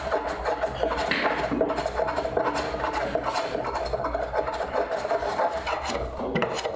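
A hand tool rasping or scraping across wood in repeated strokes.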